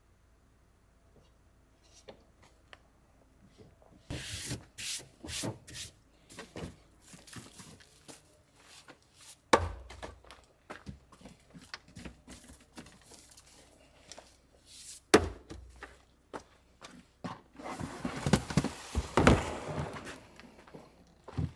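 Gear being handled by hand: irregular knocks, thunks and rubbing, with two sharp loud knocks about nine and a half and fifteen seconds in, and a busier stretch of rustling and knocking near the end.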